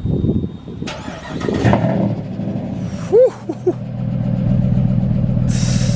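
2005 Dodge Ram's 5.7 Hemi V8, with a muffler-delete exhaust and Flowmaster mid muffler, cold-started: it cranks, catches with a brief loud flare about three seconds in, then settles into a steady fast cold idle.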